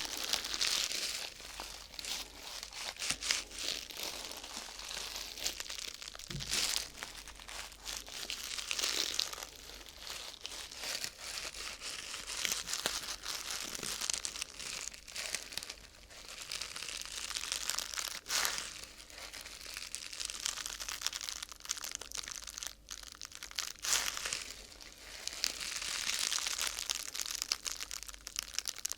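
Crinkling and rustling of thin sheet material such as vinyl or paper, handled close to the microphone. It comes in swells, with a few sharp clicks.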